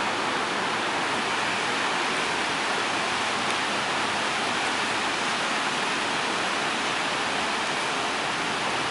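Steady rain falling, a dense, even hiss that holds constant throughout.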